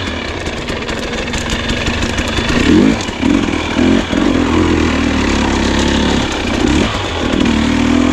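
Two-stroke enduro dirt bike engine at low speed, revved up and down in short bursts of throttle, held steadier for a couple of seconds in the middle and rising again near the end.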